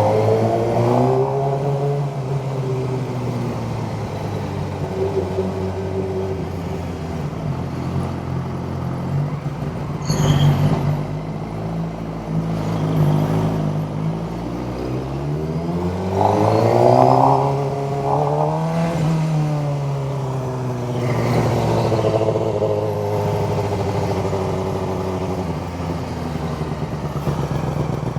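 Suzuki GSX-R sport bike engine under way, its revs falling just after the start, holding steady, then climbing and dropping again a little past the middle as the rider accelerates and eases off.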